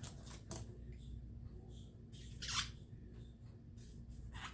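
A few short scraping clicks of a pocket knife and small cleaning tools being handled, the loudest about two and a half seconds in, over a low steady hum.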